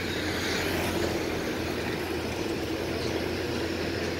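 Empty BOBRYN freight wagons rolling past on the rails, a steady, unbroken noise of wheels and running gear with a low hum beneath.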